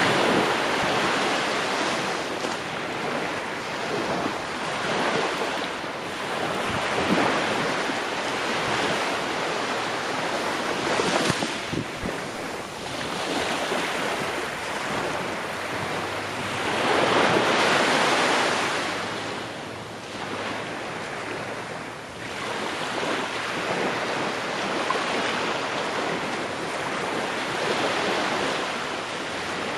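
Ocean waves breaking on the shore, a continuous wash of surf that swells and recedes every few seconds, with one larger wave surging about 17 seconds in.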